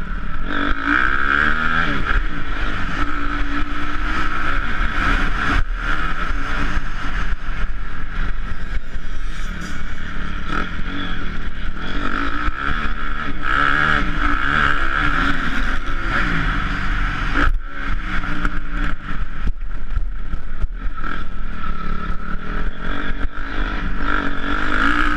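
Honda CRF250R's single-cylinder four-stroke engine being ridden hard, revving up and dropping back again and again, its pitch rising and falling as it goes through the gears.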